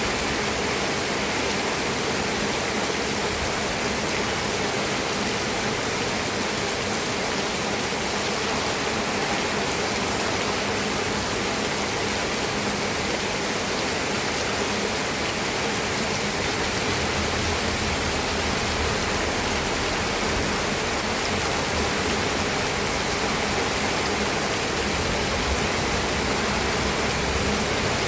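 Steady, dense rain falling, an even rushing hiss with no separate drops standing out. A faint low rumble joins underneath from about seventeen seconds in.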